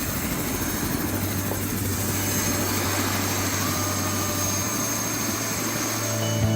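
Helicopter engine and rotor running steadily, a constant noise with a steady low hum.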